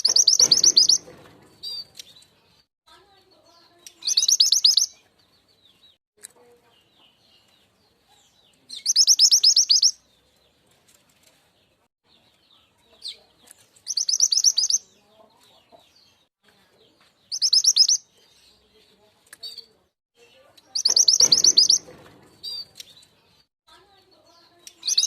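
Mountain mantenan bird (truntung weru) singing: short, fast, high-pitched trilled phrases of about a second each, repeated about seven times at intervals of a few seconds, with faint chirps in between. This is a song used as a lure call to draw in wild birds.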